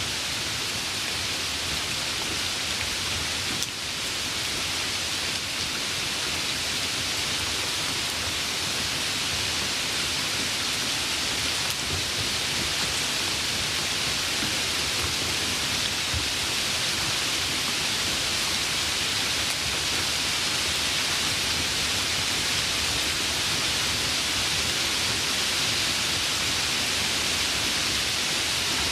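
Steady rain falling, a dense even hiss of drops with a few faint individual drop ticks.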